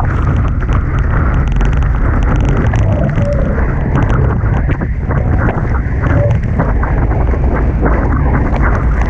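Heavy wind buffeting the microphone and rushing water on a Hobie Tiger catamaran sailing fast in strong wind. A short faint tone sounds twice, about three and six seconds in.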